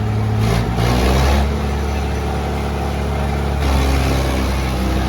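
Tractor engine running hard under load in a tug-of-war pull, its pitch shifting up and down in steps as the revs change.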